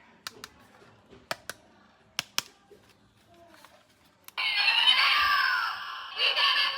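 Light plastic clicks as a toy is handled, then about four seconds in a battery-powered toy's loud electronic sound effect starts, with sweeping, warbling tones.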